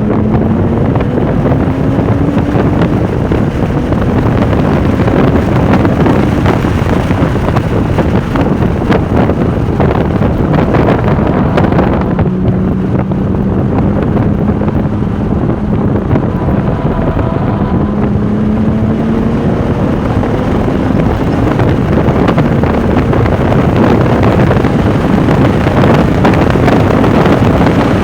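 Porsche 996 Turbo's twin-turbo flat-six running hard at speed, its note climbing several times as the car accelerates. Heavy wind noise on the microphone throughout.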